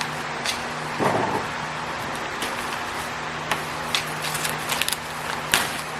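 A package being opened and handled: a burst of crinkling about a second in, then scattered sharp clicks and taps, over the steady hum and whir of an electric fan.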